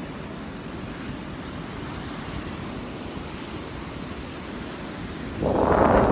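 Surf washing on the beach, with wind on the microphone. Near the end a much louder rush of noise sets in.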